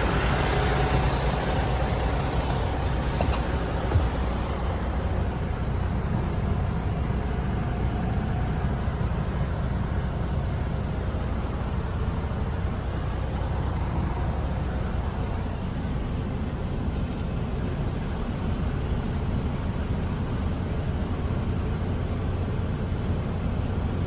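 MAN TGS 33.400 tipper truck's diesel engine idling steadily, a low even rumble. A couple of faint clicks come about three to four seconds in.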